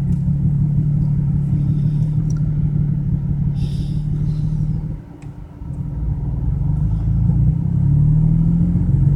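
BMW 335i's turbocharged straight-six running rough while misfiring on cylinders 4, 5 and 6, which are over the rough-running limits. The sound drops away briefly about five seconds in, then comes back, and the engine note rises near the end.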